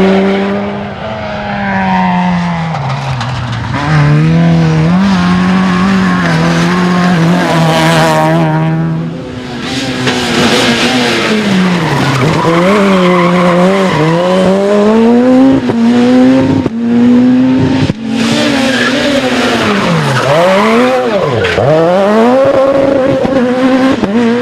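Rally cars at full competition pace, engines revving hard, dropping and rising again through gear changes and lift-offs, in several short cuts one after another, with tyre noise.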